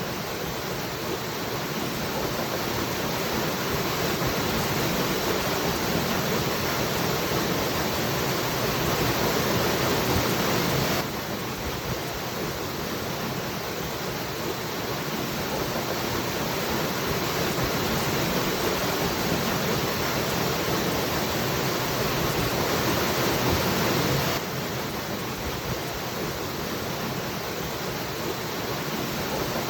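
Waterfall: a steady, dense rush of falling water. It drops abruptly a little in level about eleven seconds in and again near twenty-four seconds, where the recording is spliced, then slowly swells again.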